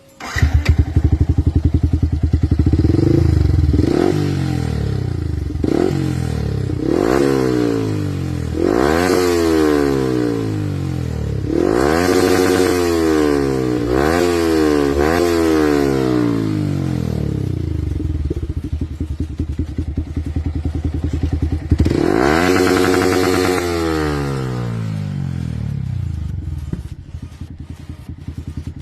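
Motorcycle with an R9 Pro aftermarket exhaust being revved while standing: a series of quick throttle blips, each rising in pitch and falling back to idle, with one more long rev about three-quarters through, then steady idling near the end.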